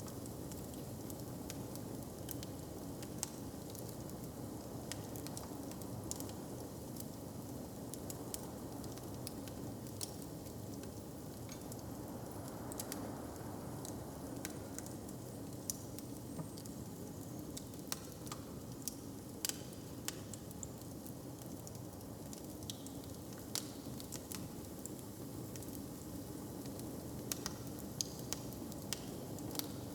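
Open wood fire crackling, with irregular sharp pops over a steady low hiss and rumble of room ambience.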